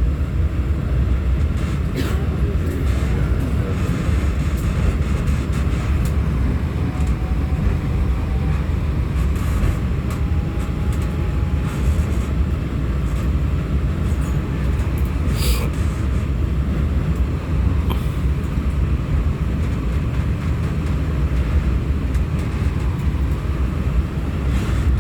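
Light-rail tram running between stops, heard from inside the car: a steady low rumble of wheels and running gear, with a faint rising whine now and then and one short sharp sound about fifteen seconds in.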